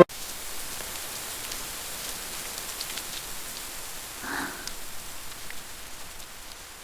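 Steady rain ambience with scattered individual drops ticking, and a faint, brief soft sound a little past four seconds in.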